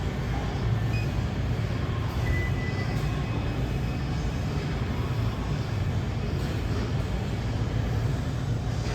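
A steady low mechanical rumble with no clear rhythm.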